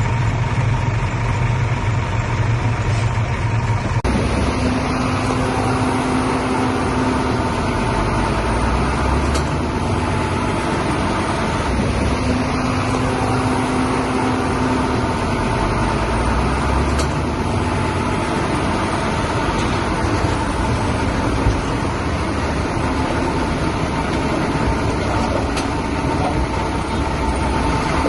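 Bulldozer's diesel engine running steadily under work. The sound changes abruptly about four seconds in, after which a faint whine comes and goes.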